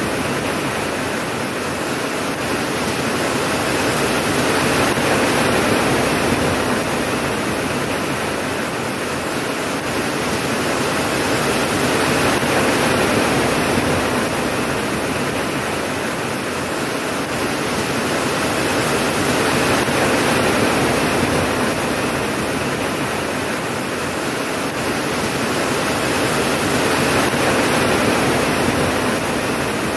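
Rain falling steadily as an even hiss, swelling and easing slowly every several seconds, with no thunderclap.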